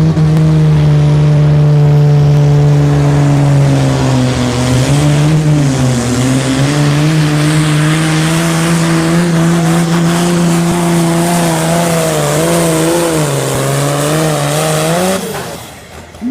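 A Super Sport class pulling tractor's engine running hard at full throttle through a pull. Its pitch dips around five seconds in and recovers, wavers again later, and then the sound drops away sharply near the end.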